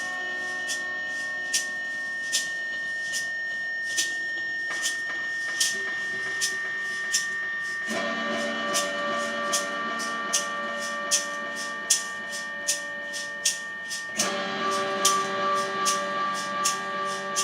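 Improvised experimental electronic music: sustained droning tones layered with a steady pulse of sharp clicks about every 0.8 seconds. The drone shifts to a fuller, louder chord about 8 seconds in and again about 14 seconds in.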